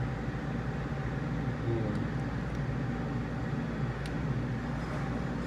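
Steady low mechanical hum, with a couple of faint clicks about two and four seconds in.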